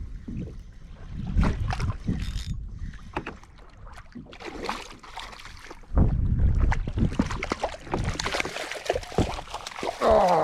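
Irregular knocks, thuds and water sounds from a fishing kayak on the water, with a denser stretch of rushing noise in the last few seconds.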